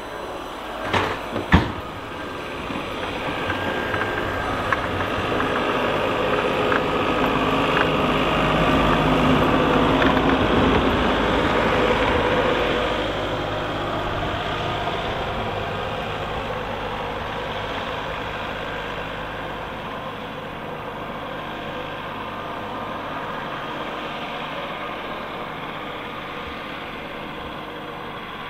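Heavy vehicle engine working, growing louder to about ten seconds in and then easing off, with a couple of sharp knocks near the start.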